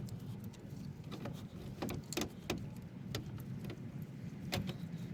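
Sharp clicks and knocks of hand tools and a hose clamp as a coolant hose is worked off a truck's water pump, over a steady low hum.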